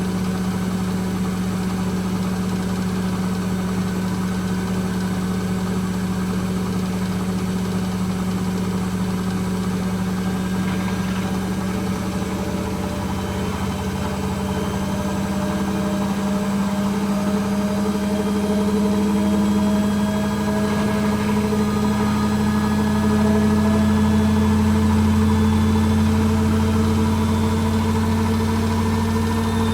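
Hoover H-Wash 300 Plus washing machine spinning, its motor and drum giving a steady hum with no pauses that rises slowly in pitch and grows a little louder after the middle as the drum speeds up.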